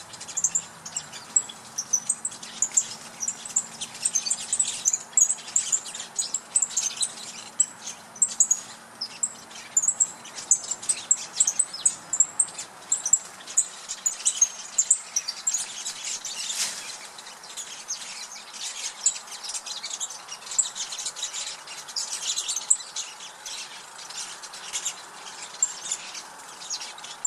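Dense chorus of many small birds chirping and twittering together without a break, a mixed flock settling into a communal roost tree at dusk.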